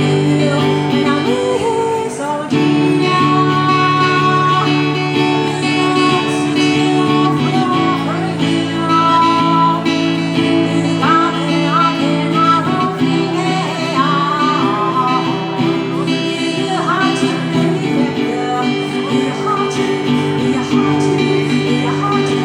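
Live acoustic guitar music: steady chords underneath, with a wavering, sliding melody line over them.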